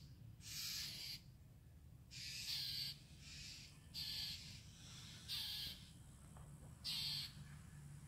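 Harsh, noisy calls from birds mobbing a perched great horned owl, repeated about once every second or so, six in all. This is alarm calling aimed at the owl.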